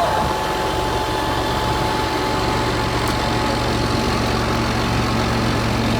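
Tractor engine running steadily, heard from inside the cab as a constant low hum that grows slightly stronger about halfway through.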